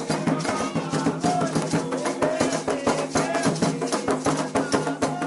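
Candomblé ritual music: hand drums and a shaker rattle keep a fast, steady rhythm while voices sing a Yoruba chant over it.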